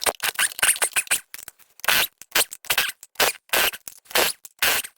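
Repeated short scraping strokes, about two to three a second.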